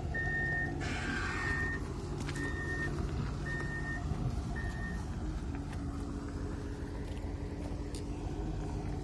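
A vehicle's reversing alarm beeps about once a second over a diesel engine running, then stops about halfway through while the engine keeps running. There is a short hiss about a second in.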